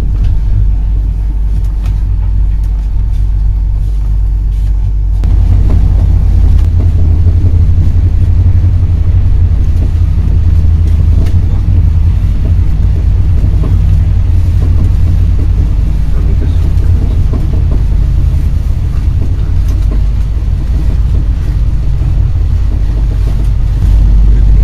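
Running noise of an Intercity passenger coach heard from inside: a steady low rumble of wheels on rails, growing louder and rougher about five seconds in.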